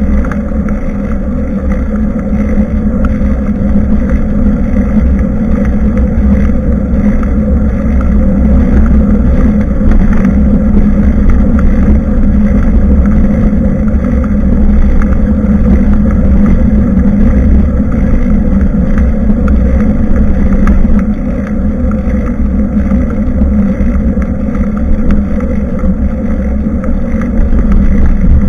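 Loud, steady rumble of wind and road noise on a bicycle-mounted action camera's microphone while riding, easing slightly for a moment a little after two-thirds of the way through.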